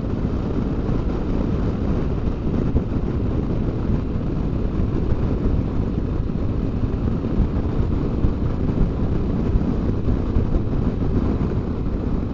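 BMW R1200GS Adventure flat-twin motorcycle being ridden on the road: a steady low engine drone mixed with rushing wind.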